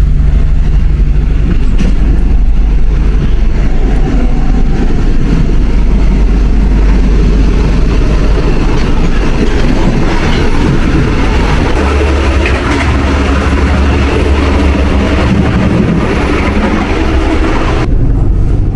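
Loud, steady rumble and rattle of a moving train, with a change in the low rumble about twelve seconds in.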